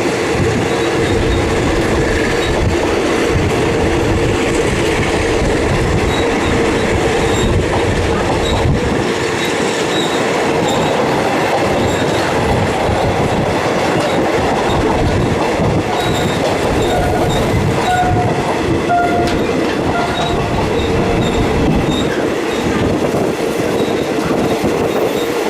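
Train running on the rails, a steady rumble with its wheels clattering over the rail joints.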